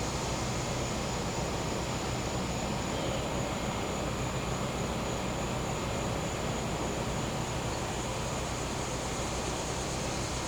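Gas-powered generator running with a steady hum. A thin, constant high insect drone sits above it.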